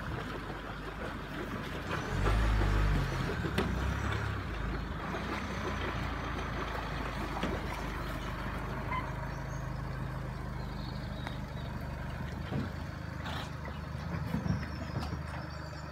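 SUV engine running as it pulls an empty boat trailer up a slipway out of the water, with a louder surge of engine about two seconds in.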